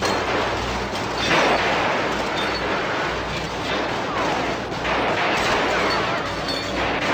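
Sustained automatic gunfire from a film shootout, many shots running together into a dense, continuous clatter.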